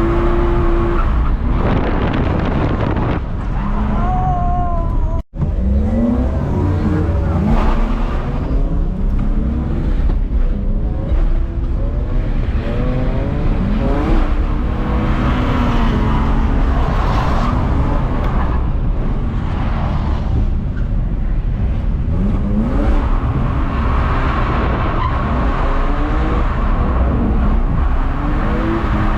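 BMW E46 325Ci's straight-six engine revving up and down again and again while drifting, with a brief break in the sound about five seconds in.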